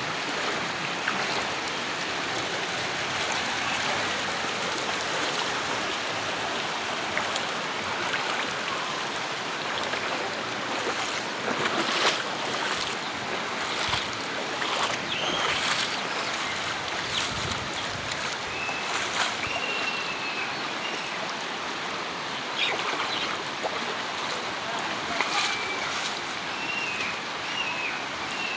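Steady rushing of floodwater, with a few sharp clicks and some short high chirps in the second half.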